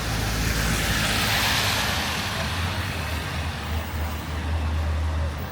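Road traffic on a rain-soaked road: tyre hiss swells about a second or two in and fades, over a steady low engine hum.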